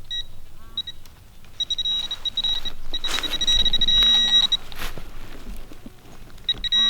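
Metal detector sounding on a buried target: a steady high-pitched electronic tone lasting about three seconds with a lower hum beneath it, short beeps before it, and the tone sounding again near the end. A couple of digging knocks mix in.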